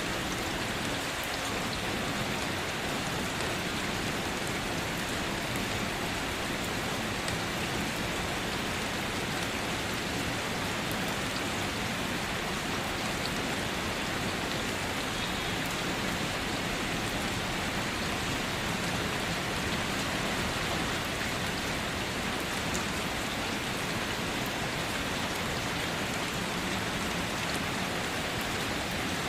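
Steady rain falling on leaves and surfaces, an even hiss with scattered drops, no thunder.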